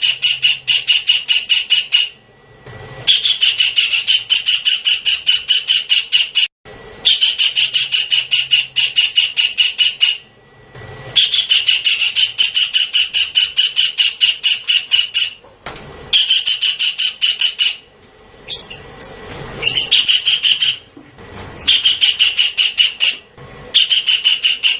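Javan kingfisher's rattling call: rapid series of harsh, evenly spaced notes, about eight a second, in bursts of two to four seconds with short pauses between, as played from a bird-lure recording. A few gliding, squealing notes break the pattern briefly about two-thirds of the way through.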